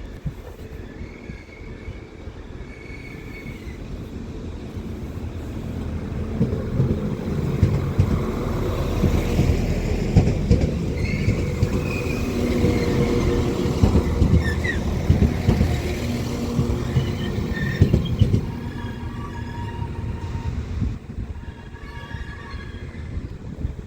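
Diesel multiple unit moving at the platform, its engine and rail noise building over several seconds, staying loud through the middle and then easing off. High wheel squeal on the rails comes in around the middle.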